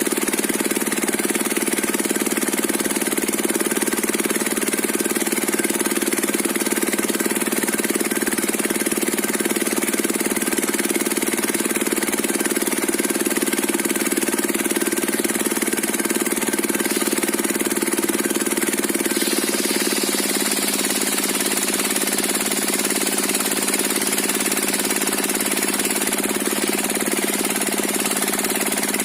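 Diesel-engine-driven circular sawmill running steadily, with a shift in its sound about twenty seconds in as more hiss comes into the upper range.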